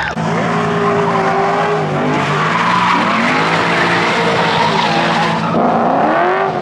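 Drift car's engine revving hard, its pitch rising and falling through a slide, with tyres skidding and squealing. The tyre noise is heaviest in the middle of the slide.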